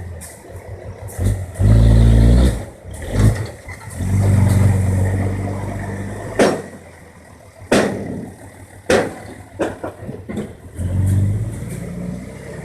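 Six-wheel dump truck's diesel engine running and revving up in surges, twice strongly in the first half and again near the end. Several sharp bangs or knocks sound in the second half.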